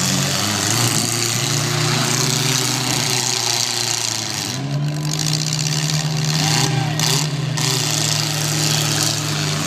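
Demolition derby car engines running in the arena, a steady engine drone that shifts pitch and settles about halfway through, over a broad noisy haze.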